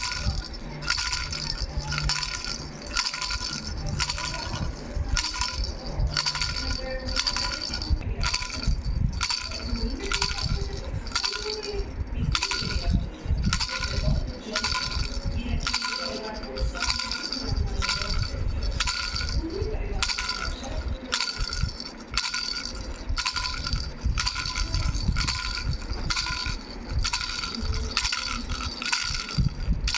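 Three-bell baby rattle shaken rhythmically, about two shakes a second, its small bells jingling with a steady ringing tone.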